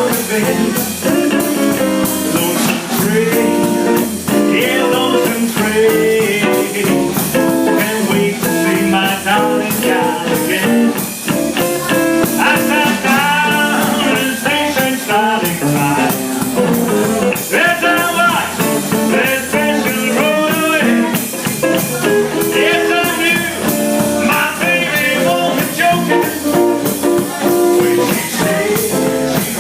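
Live blues rock-and-roll band playing loudly, with electric guitar, bass and drums, and quick melodic lines that bend up and down over a steady beat.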